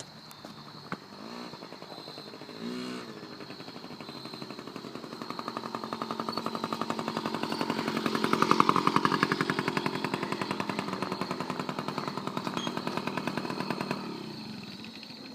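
Dirt bike engine running, growing louder as it comes closer, loudest about halfway through, then fading as it moves away.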